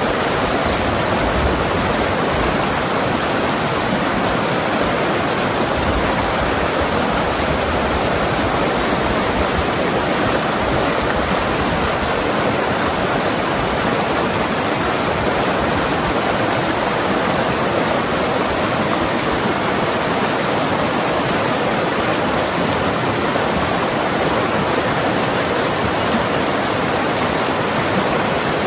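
Mountain river rushing and gurgling over rocks, a steady, dense water noise.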